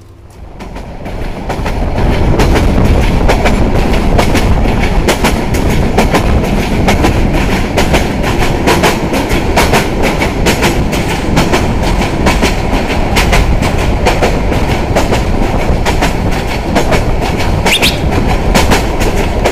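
Passenger train running at speed, heard from the carriage window: a loud, steady rumble with many sharp, irregular clicks. It grows louder over the first two seconds.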